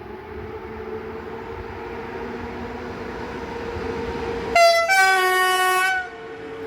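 Electric locomotive's horn sounding two blasts as the train departs: a short one, then a lower, longer one of about a second. A steady hum from the train runs underneath.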